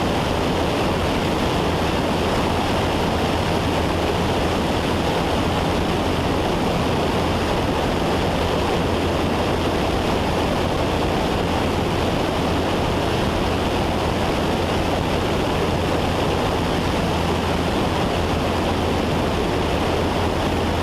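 Cessna 172 Skyhawk's piston engine and propeller droning steadily in cruise, heard from inside the cockpit, with a constant low hum and rushing airflow noise.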